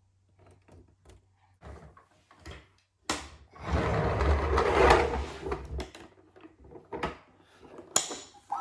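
Plastic toys being handled: scattered clicks and knocks, with a few seconds of louder rattling and rumbling starting about three seconds in.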